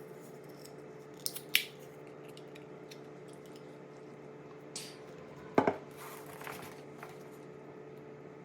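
A few sharp clicks and knocks of small objects being handled, the loudest about five and a half seconds in and followed by a short rustle, over a steady low hum.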